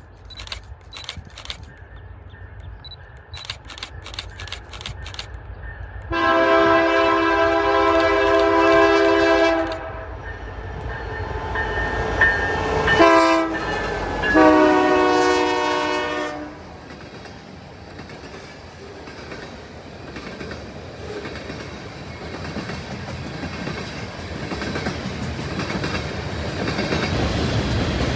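Locomotive air horn sounding a long chord-like blast, then short blasts and a final long blast, followed by the steadily rising rumble of the train drawing closer.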